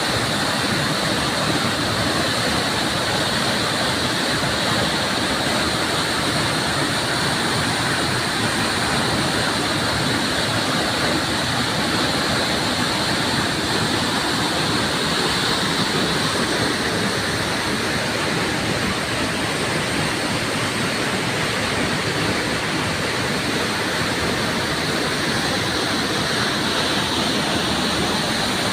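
A waterfall pouring steadily, a dense, even rush of falling water.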